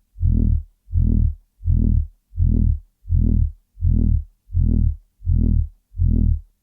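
Loud, deep throbbing noise: a low buzzing tone pulsing on and off about one and a half times a second, with short silences between the pulses.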